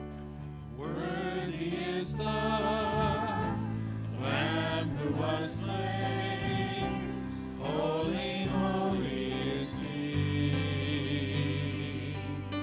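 Worship song: voices singing phrases with vibrato over sustained instrumental chords and a steady bass.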